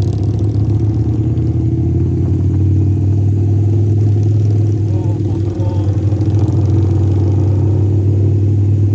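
Harley-Davidson V-twin motorcycle engine running steadily with a loud, even low drone.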